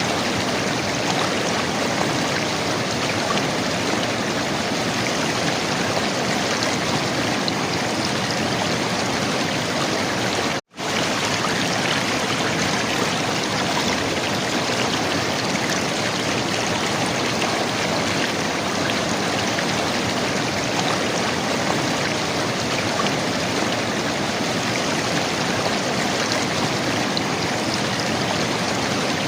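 River water running and gurgling, a steady rushing wash. It cuts out to silence for a split second about ten seconds in, then resumes.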